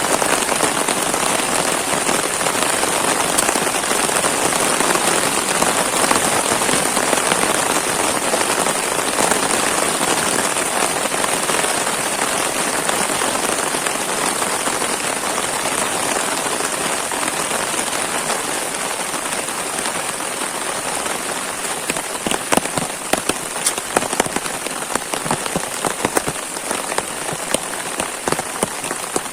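Heavy rain falling steadily, a dense even hiss. From about three-quarters of the way through, sharp separate drops start landing close by.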